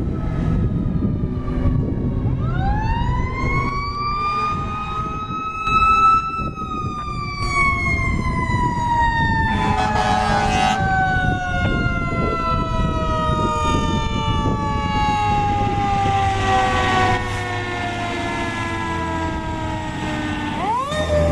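Fire apparatus mechanical siren winding up to a high wail, then slowly coasting down in pitch, and starting to wind up again near the end, over a low diesel engine rumble. About ten seconds in comes a short burst of noise.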